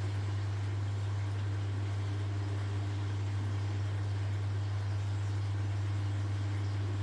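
1969 Zanker VA520 washing machine running with a steady, unchanging low hum.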